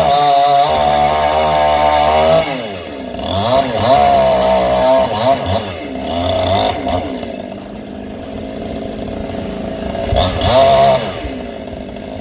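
Two-stroke chainsaw running at coconut tree cutting, its engine revving up and down repeatedly. It is loudest in the first couple of seconds and again near the end.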